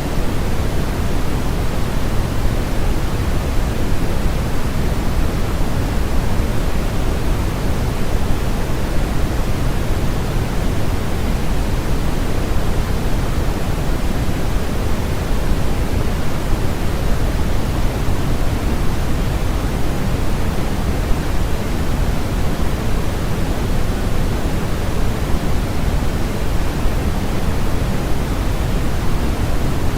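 Steady noise sound for masking, an unbroken even hiss with no changes or events. It is weighted toward the low end, so it sounds deeper than flat white noise, closer to pink noise.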